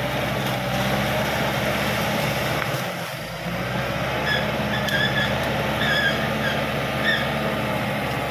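Crawler bulldozer's diesel engine running steadily, with a run of short high-pitched squeaks a little past halfway.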